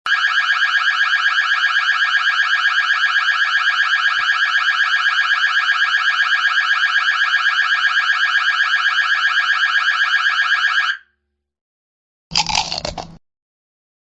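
Electronic buzzer-type alarm sound effect: a harsh, rapidly pulsing buzz held steady for about eleven seconds, then cut off suddenly. After a short silence, a brief harsh burst of noise under a second long.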